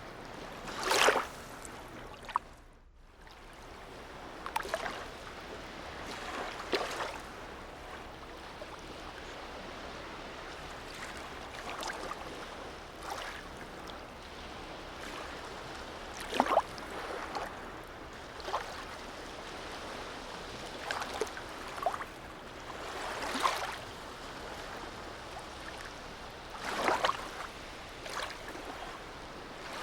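Harbour sea water lapping: a steady wash with small waves slapping and sloshing irregularly every few seconds.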